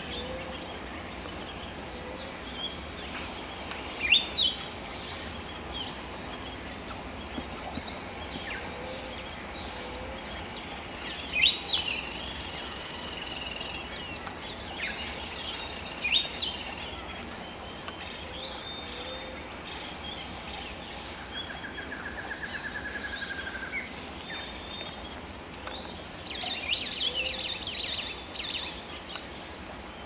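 Several birds calling, scattered sharp chirps and short whistled notes over a steady background hiss. A brief buzzy trill comes about twenty-one seconds in, and a quick run of chirps near the end.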